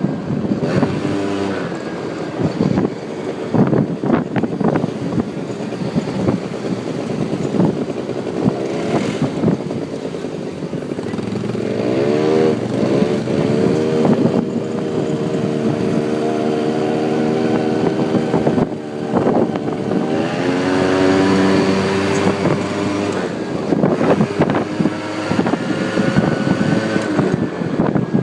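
Quad bike engine running while being ridden, rising in pitch as it speeds up about twelve seconds in and again about twenty seconds in. Wind buffets the microphone.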